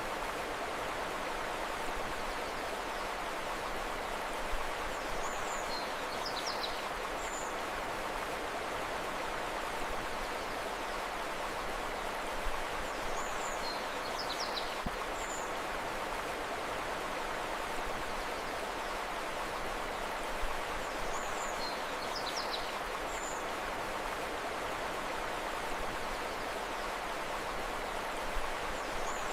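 Steady rushing of flowing river water, with short high bird chirps that recur about every eight seconds.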